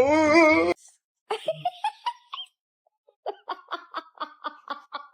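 A person laughing in a quick run of short, even bursts, about six a second, in the second half. It is preceded by a brief wavering voice at the start and a few scattered vocal sounds.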